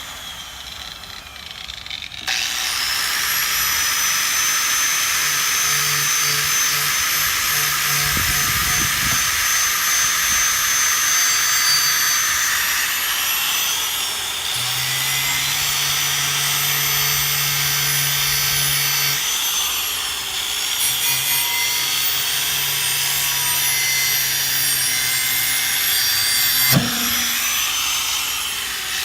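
Power-driven wire wheel scrubbing rust off an old steel sickle blade: a steady, harsh hiss over the grinder motor's running hum, growing louder about two seconds in and going on without a break. One sharp knock near the end.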